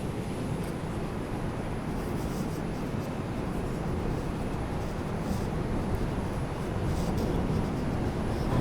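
R142 subway car running between stations, heard from inside the car: a steady rumble of wheels on rail with a few faint ticks, getting a little louder near the end.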